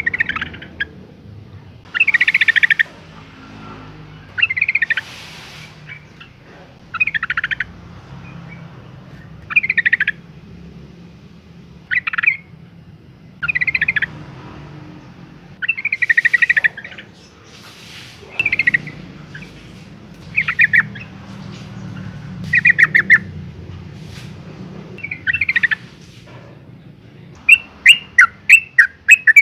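Female yellow-vented bulbul calling: short chattering phrases repeated about every two seconds, then a fast run of sharp chirps near the end. This is a lure call used to provoke males into singing.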